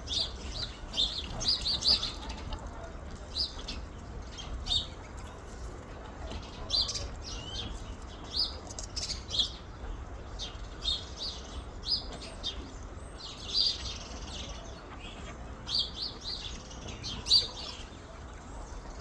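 Birds chirping: short, high chirps come irregularly, one to a few every second, with a few louder bunches.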